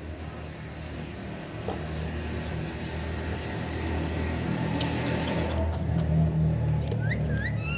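A low, steady engine rumble that slowly grows louder, like a motor vehicle running close by. A few short rising bird chirps come near the end.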